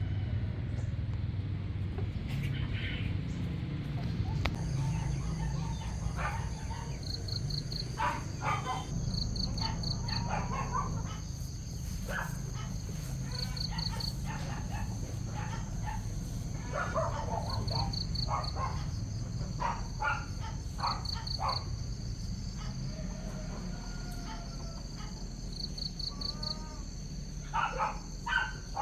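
Farmyard chickens making short scattered clucks and calls over a steady high insect drone. The drone is broken every few seconds by brief trills of a few quick pulses. A steady low rumble runs underneath.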